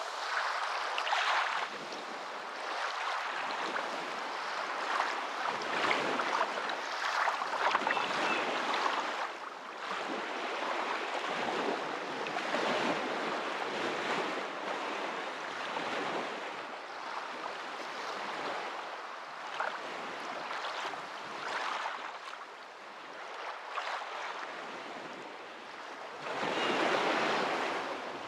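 Rushing water: a steady noise that swells and fades every few seconds, with a louder surge near the end.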